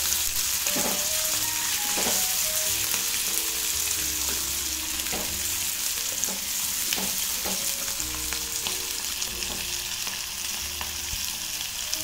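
Sliced onions, green chillies, curry leaves and peanuts frying in hot oil in a nonstick kadhai, sizzling steadily. A wooden spatula stirs them and scrapes or knocks against the pan every second or two. Faint melodic music plays underneath.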